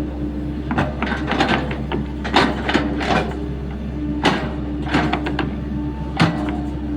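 Sany SY75C mini excavator's engine running steadily while it digs a trench, with repeated sharp clanks and knocks from the bucket and linkage working hard ground.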